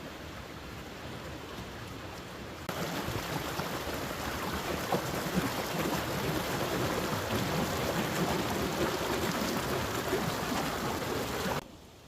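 Rushing water of a waterfall, a steady hiss that jumps louder about three seconds in and cuts off to a much quieter level near the end.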